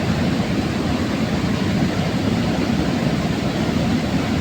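Fast mountain river rushing steeply down over rapids: a steady, unbroken roar of water, heaviest in the low range.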